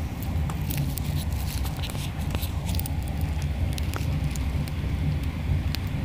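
Passenger train running at speed, heard from inside the carriage: a steady low rumble with scattered light clicks and ticks.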